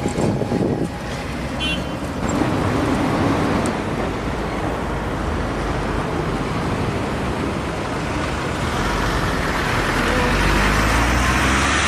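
Street traffic noise, with a vehicle growing louder near the end as it comes closer.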